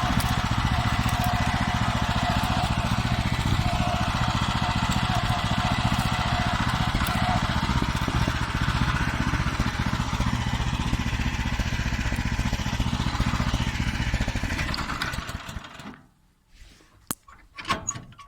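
Farmer 1511 walk-behind tractor's engine running steadily while moving. The engine sound dies away about fifteen seconds in, and a few sharp clicks and knocks follow near the end.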